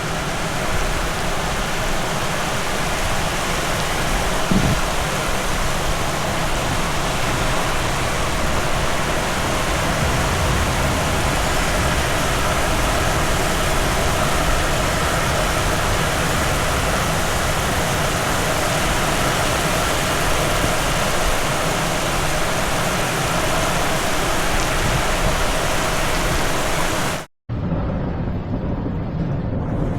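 Heavy downpour: loud, steady rain hiss. About 27 s in, it cuts off abruptly, and a low rumble of thunder builds near the end.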